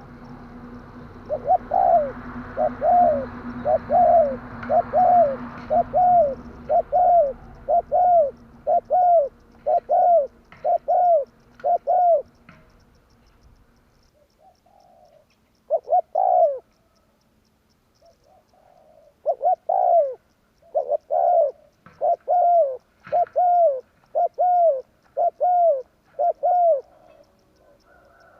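Spotted dove (tekukur) cooing: a long series of repeated, arched coo notes, about one and a half per second, with a pause of a few seconds midway before the series resumes.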